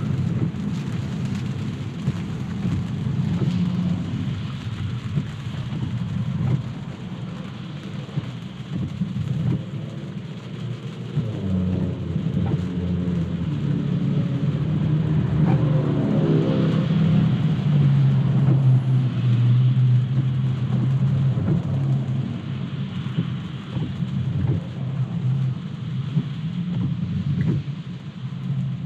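Road noise inside a Tesla driving in the rain: a steady low rumble of tyres on wet pavement with a hiss of rain and spray. A pitched hum shifts in pitch around the middle.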